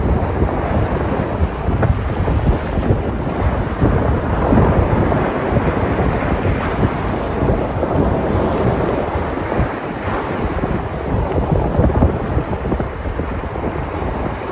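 Sea surf breaking and washing on the shore in a continuous rush that swells and eases, with wind buffeting the microphone in a low rumble.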